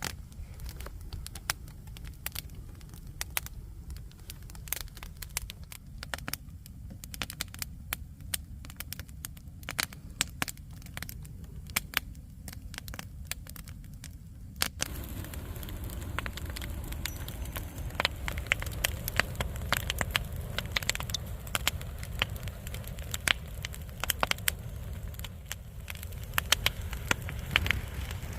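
Wood fire crackling and popping, with many sharp irregular pops over a low rumble of flames; it grows louder and busier about halfway through.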